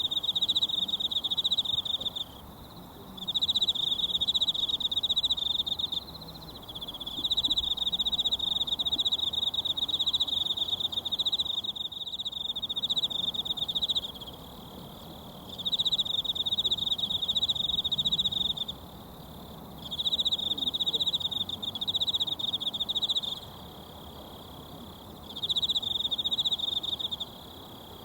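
A high, rapidly pulsed insect trill, sung in about six bouts of two to seven seconds with short pauses between, over the faint rush of a mountain stream.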